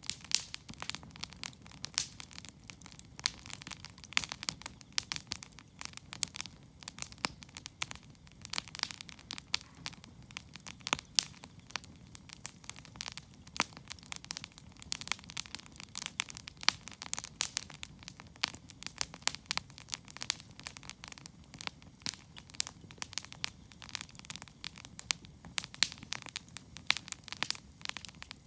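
Wood campfire crackling: a dense, irregular run of sharp pops and snaps over a low steady rumble from the flames.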